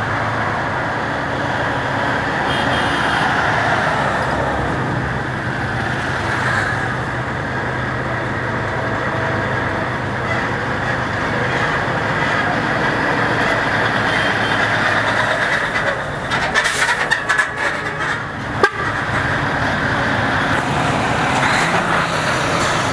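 Road traffic and a motor vehicle's engine running steadily in a moving convoy. A burst of sharp crackles and knocks comes about three-quarters of the way through.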